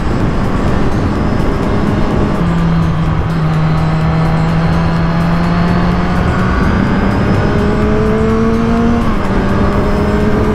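Kawasaki Z1000's inline-four engine pulling along at road speed under a rush of wind noise. Its pitch drops sharply about two and a half seconds in, climbs slowly, then drops again about nine seconds in.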